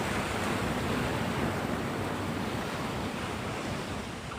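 Surf breaking on a sandy beach, a steady wash of waves with wind buffeting the microphone. The wash swells slightly and eases off near the end.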